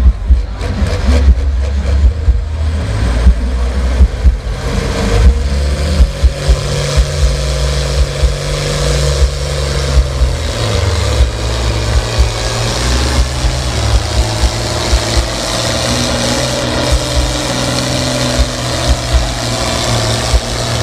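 International Harvester 966 tractor engine running hard under full load while pulling a weight-transfer sled. The sound builds and grows brighter from about five seconds in.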